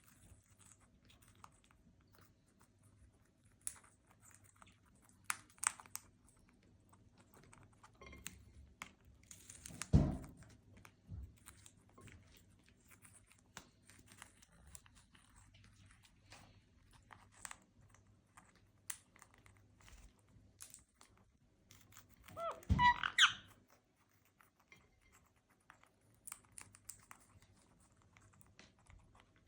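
Indian ringneck parrot crunching and nibbling at food, in scattered faint crunches and clicks, with one loud knock about ten seconds in and a short call about two-thirds of the way through.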